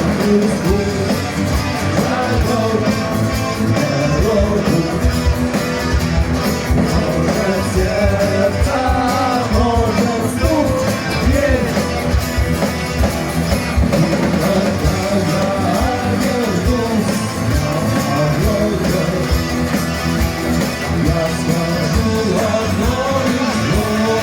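Rock band playing live, with a man singing over it.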